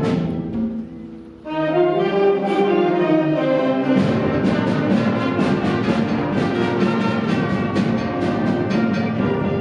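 School concert band playing: held brass chords that thin out about a second in, then the full band comes back in, with a steady drum beat from about the middle on.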